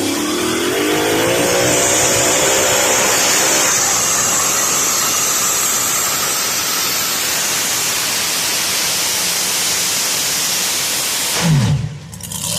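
Two-wheel-drive pulling truck's engine revving up over the first few seconds, then running at full throttle under load through a pull. Near the end the revs fall away sharply as the throttle is let off.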